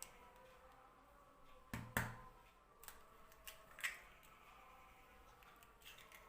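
A quiet room with a few light clicks and knocks of kitchen things being handled; the loudest comes about two seconds in.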